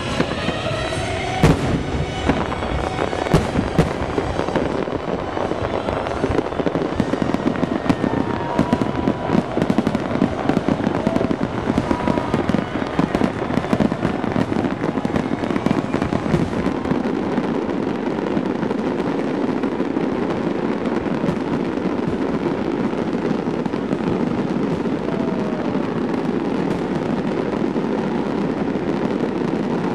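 Aerial fireworks shells bursting in a large display. Sharp bangs stand out in the first few seconds, then many shells go off together in a dense, continuous crackle.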